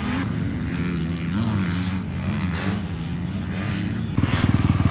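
Motocross dirt bike engines running on the track, pitch rising and falling with the throttle. About four seconds in, a louder bike comes in with a fast, pulsing exhaust note.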